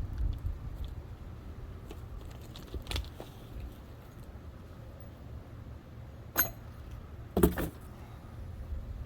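A few sharp metallic clinks and knocks from metal objects being handled, spaced seconds apart; the loudest come as a quick pair about seven and a half seconds in. Under them runs a low steady rumble.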